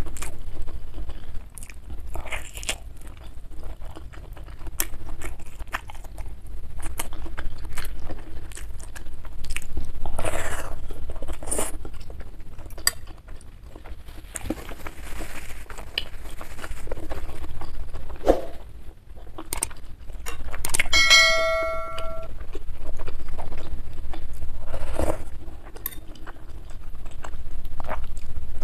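Close-miked chewing of beef meatball (bakso), with wet mouth clicks and smacks coming in waves. About two-thirds of the way through there is a short ringing ding. Near the end, soup is sipped from a spoon.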